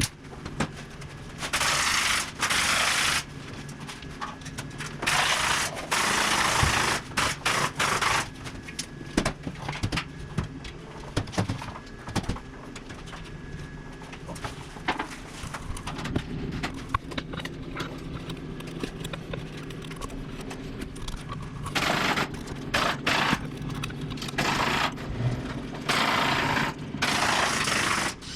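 Carpentry work: a pneumatic nail gun firing again and again in sharp clicks, with a few loud stretches of one to three seconds of a power tool running.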